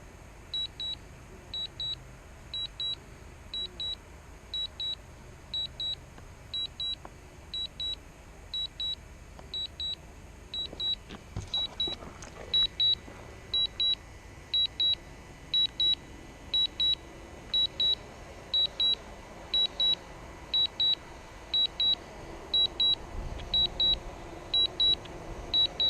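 Drone remote controller sounding its low-battery warning: a high double beep repeating about once a second.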